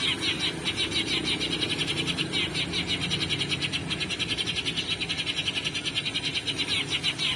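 House sparrow chirping, rapid and unbroken, most likely the lure recording played from an MP3 player to draw sparrows in.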